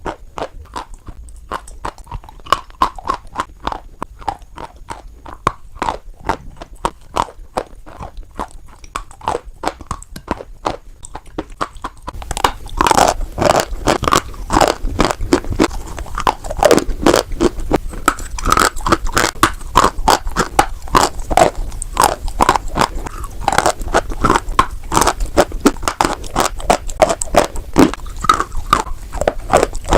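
Close-up crunching and chewing of white chalk, a rapid run of dry crackles and crunches. It turns louder and denser about twelve seconds in.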